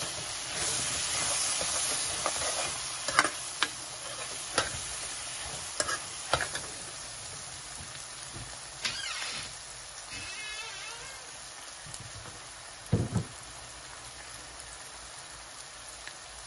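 Onions and split chickpeas sizzling as they fry in a metal kadhai while freshly added spices are stirred in. A steel ladle clinks and scrapes against the pan now and then. The sizzle is loudest in the first couple of seconds, then settles lower.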